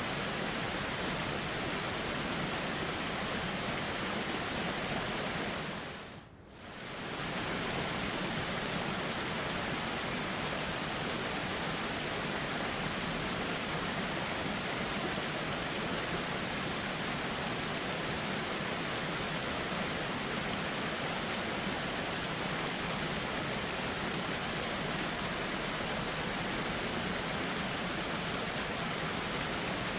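Steady rushing of a flowing river, an even continuous hiss of water. About six seconds in it fades down briefly and comes straight back up.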